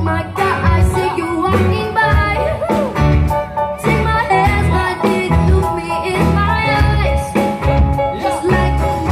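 Loud live band music with a singer's wavering vocal line over sustained instrument notes and a heavy, pulsing bass beat.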